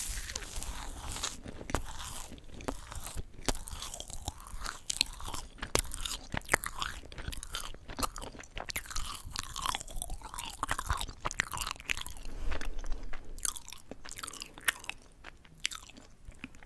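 Close-miked chewing of yugwa, a Korean fried glutinous-rice confection coated in puffed rice: many irregular crisp crunches and crackles of the puffed-rice coating mixed with sticky chewing. The crunches thin out and grow quieter near the end.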